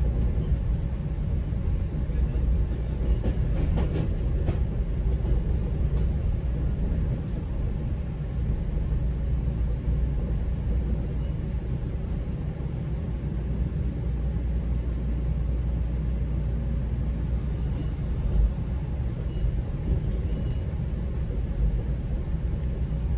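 GO Transit commuter train running along the tracks, heard from inside a passenger coach as a steady low rumble. A few light knocks come a few seconds in, and a faint high whine comes in about halfway through.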